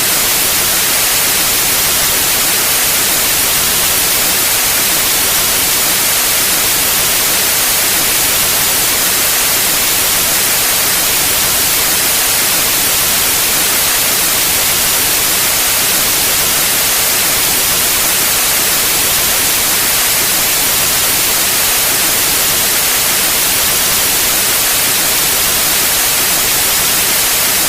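Steady white noise: an even, loud hiss across the whole range, brightest in the highs, with no change.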